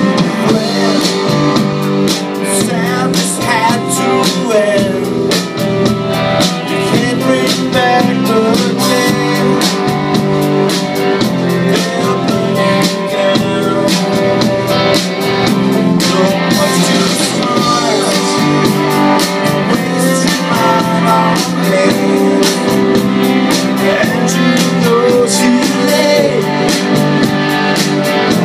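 A rock band playing live, led by electric guitars over a steady beat.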